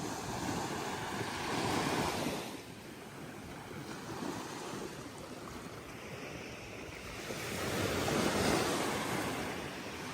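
Ocean surf washing onto a sandy beach: a wave's rush fades out a couple of seconds in, the wash stays low for a while, then another wave swells up near the end.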